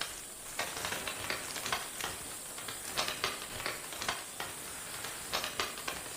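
Bats in a hollow-tree roost: scattered bursts of rapid crackling clicks over a steady hiss.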